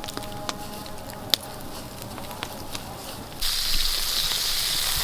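Campfire crackling with scattered sharp pops, then, about three and a half seconds in, a sudden change to the loud, steady sizzle of bacon and eggs frying over the fire.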